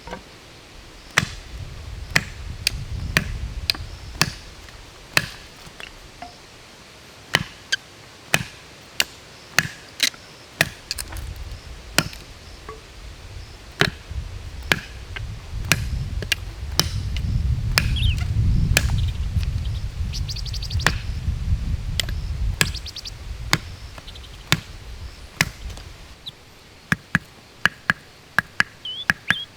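Wood being chopped with a blade: sharp strikes at uneven intervals, about one or two a second and coming quicker near the end. A low rumble rises under the strikes for a few seconds near the start and again through the middle.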